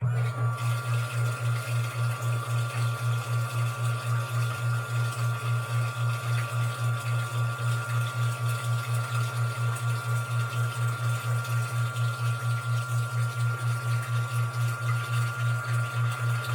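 Washing machine drain pump running: a steady low hum with a fast, even pulsing and a thin high whine above it, cutting in abruptly.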